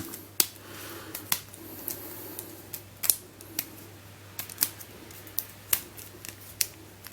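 Plastic segments of a heart-shaped 24-piece magic snake puzzle being twisted by hand, clicking irregularly as the pieces rotate and snap into place, about two or three clicks a second.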